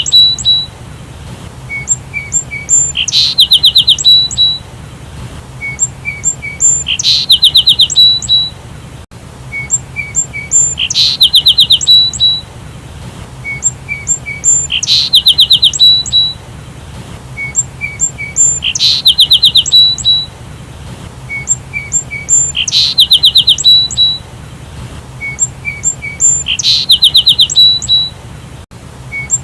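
A sparrow singing: a few short chirps followed by a fast trill of about ten notes. The same phrase repeats about every four seconds.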